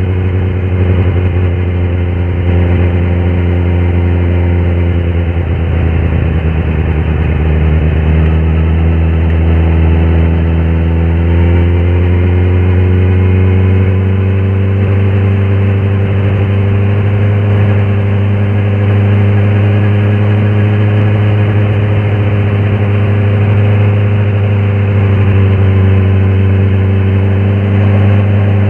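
Kawasaki ZX-10R SE's inline-four engine running on the road. The engine note dips briefly about five seconds in, then climbs gradually and holds steady.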